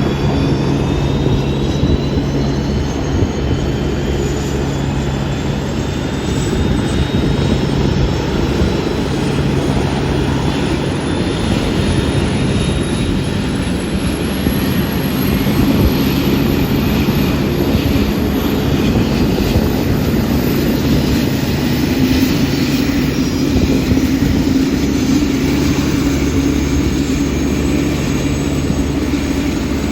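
Turbine helicopter running on the ground, its engine whine climbing slowly and steadily in pitch over a constant low hum.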